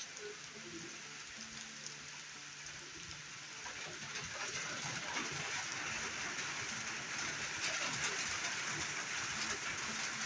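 Steady rain falling, growing a little louder about four seconds in.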